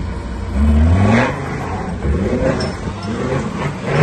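Modified GAZ-69 off-road trial buggy's engine revving hard in repeated bursts under load as it climbs a steep dirt bank, the pitch rising with each burst. The loudest burst comes about half a second in, with another near the end.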